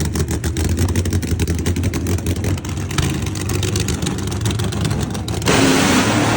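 A vehicle's engine running steadily with a low hum and rapid crackling clicks. About five and a half seconds in, the sound changes abruptly to a louder, broader rushing noise.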